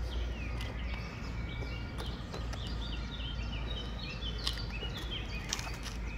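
Small birds singing, with a run of short falling chirps in the middle, over a steady low rumble. Scattered sharp taps of shoes on pavement.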